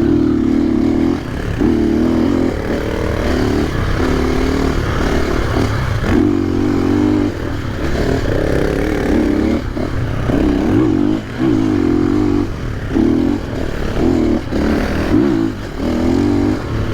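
A KTM 500 EXC's single-cylinder four-stroke dirt bike engine being ridden hard on a rough, sandy track. The throttle opens and closes in short bursts every second or so, so the engine note keeps rising and falling.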